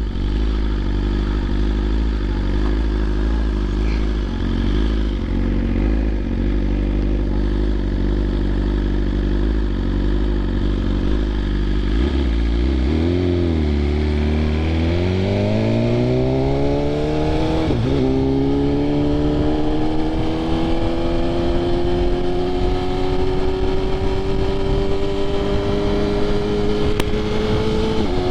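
BMW S1000RR inline-four with an aftermarket SC Projects exhaust, under way: a steady engine note for about twelve seconds, a brief dip in pitch, then the note climbs as the bike accelerates, with a gear change about eighteen seconds in and a long, slow rise after it.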